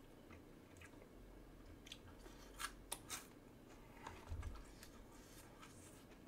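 Quiet close-up chewing of tteokbokki rice cakes, with a few soft, sharp clicks and smacks a couple of seconds in.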